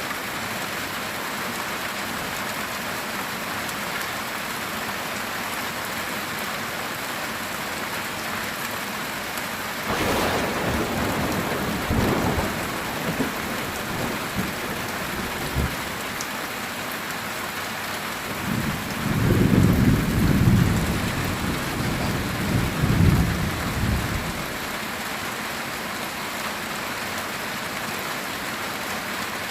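Steady heavy rain on a metal tin roof, with thunder. A sharp crack about a third of the way in trails off in rumbles, then a louder, longer low rumble of thunder comes past the middle and dies away.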